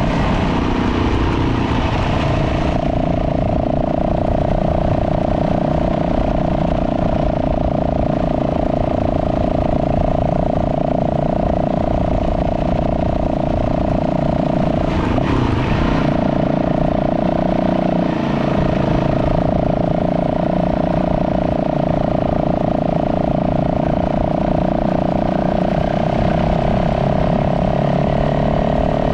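Dirt bike engine running at a steady pitch while riding, with a brief change about halfway through.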